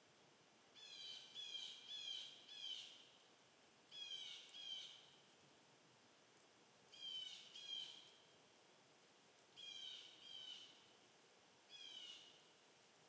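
A bird calling: short nasal-sounding notes, each sliding down in pitch, repeated in clusters of one to four every two or three seconds.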